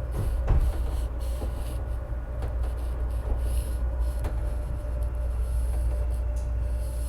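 CTA Pink Line train running, heard from inside the car: a steady low rumble with a constant hum, and a few sharp clicks from the wheels over the track.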